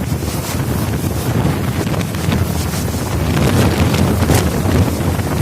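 Strong wind gusting and buffeting the microphone, a loud, unbroken low rumble with a hiss above it.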